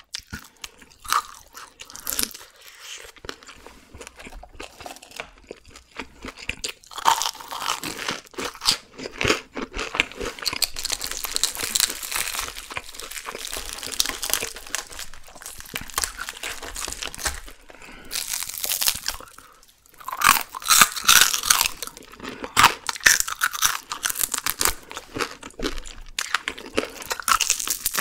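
Close-miked crunching of crispy deep-fried whole chicken skin as it is bitten and chewed, coming in bouts of crackling bites with a brief lull about two-thirds of the way through.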